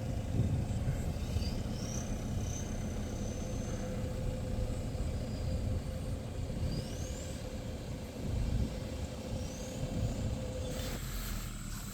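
A vehicle driving, with an uneven low rumble and a steady hum that stops near the end.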